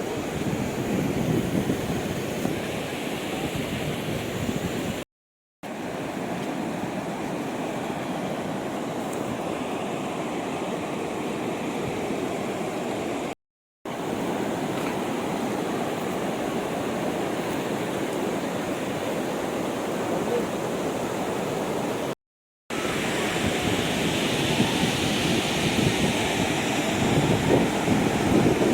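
Waterfall water rushing and splashing in a steady roar, with brief wind buffeting on the microphone; the sound cuts out to silence three times for about half a second each.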